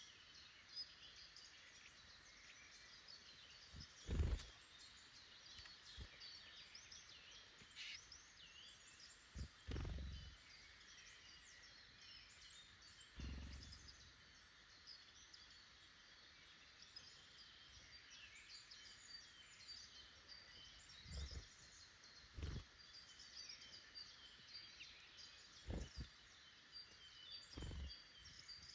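Faint woodland birdsong: many small birds chirping and calling steadily in the background, with a few soft low thumps scattered through.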